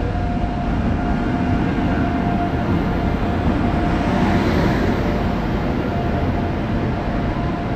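A train pulling into a station platform behind an Indian Railways WAP-7 electric locomotive, with LHB coaches following: a steady, loud rumble of wheels on rails under a thin steady hum. It swells about four to five seconds in as the locomotive and first coaches pass close by.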